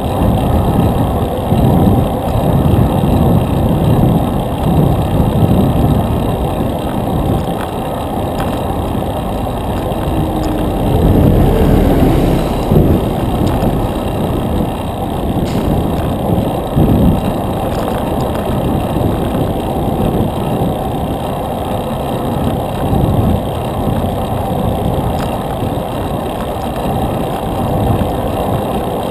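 Wind buffeting the microphone of a camera riding along on a moving bicycle, with road traffic; a louder stretch with a gliding pitch about eleven seconds in, like a vehicle going by.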